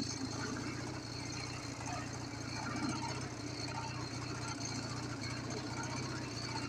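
Ural motorcycle's flat-twin engine running steadily at a low, even pitch, shortly after a major overhaul.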